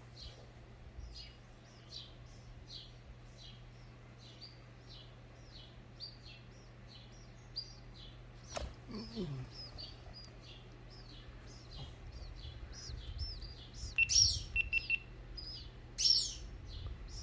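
A small bird chirping over and over, about two to three short high chirps a second, with louder calls near the end.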